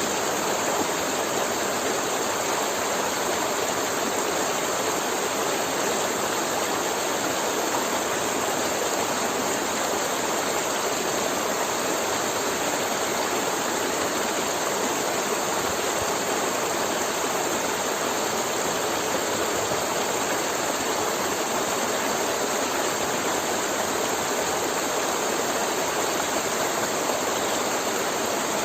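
River water flowing steadily over its bed, a continuous even wash of water noise with no breaks or changes.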